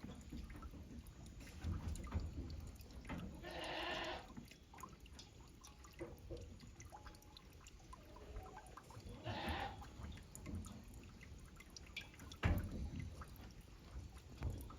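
A goat bleats twice, a longer call about four seconds in and a shorter one near ten seconds, over wind rumbling on the microphone.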